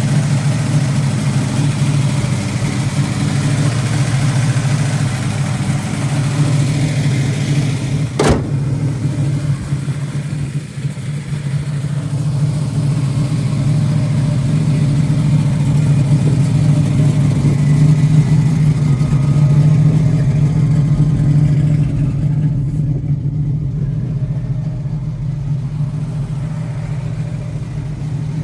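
1974 Plymouth 'Cuda's 340 V8 engine running steadily at idle with a low rumble and slight swells. A single sharp click sounds about eight seconds in.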